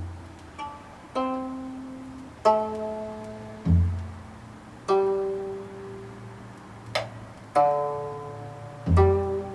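Gayageum, the Korean twelve-string zither, played solo in slow single plucked notes, about one every second and a quarter, each ringing and fading away. Three deep low notes are bent in pitch, the first near the start, one about four seconds in and one near the end.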